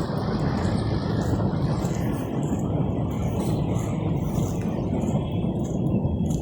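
Steady low rushing noise of road traffic on a rain-wet street.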